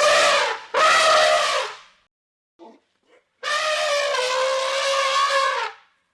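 Elephant trumpeting: two short blasts, then one long, steady trumpet call.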